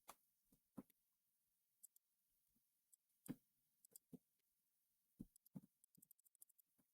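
Faint, scattered clicks of a computer mouse and keys, with a quick run of about eight clicks near the end.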